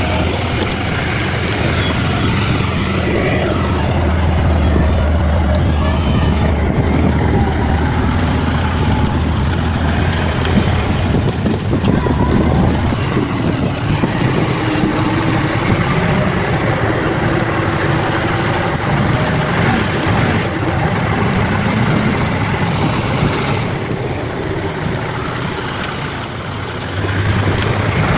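Bulldozer's diesel engine running steadily under load, with a brief dip in level near the end before it comes back up.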